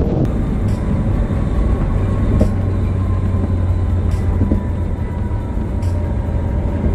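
C7 Corvette V8 running at a steady cruise while driving, with a low, even drone and road noise.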